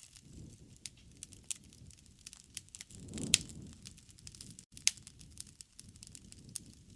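Wood fire crackling, with irregular sharp pops and snaps over a soft low rush of the flames. The loudest pop comes a little before the middle on a brief swell of the flames, with another strong snap about two-thirds through.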